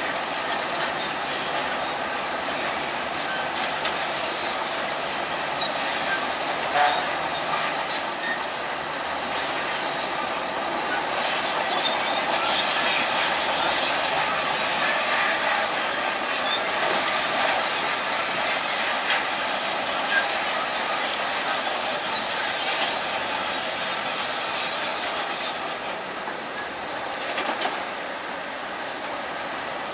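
Crawler bulldozer working: a continuous, dense metallic clatter of its steel tracks.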